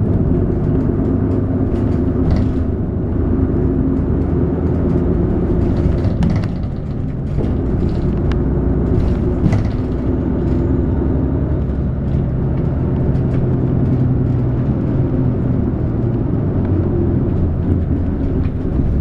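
A city route bus heard from inside the cabin while driving: engine running with a steady low rumble and road noise, its note shifting a few times, with occasional light clicks and rattles.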